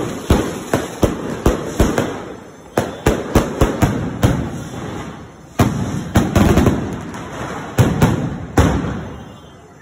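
Aerial fireworks launching and bursting overhead: a rapid, irregular series of sharp bangs, each trailing off in an echo. A denser stretch of crackling comes around the middle, and the bangs die away near the end.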